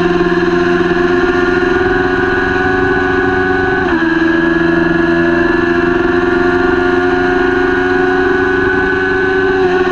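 Kawasaki Ninja 400 parallel-twin engine running at high revs under full throttle. Its pitch drops quickly about four seconds in at an upshift, then climbs slowly again.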